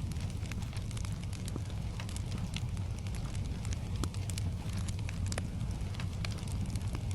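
Wood fire in a fireplace crackling, with sharp irregular pops every fraction of a second over a steady low rumble and soft hiss that the ambience mix pairs with gentle rain.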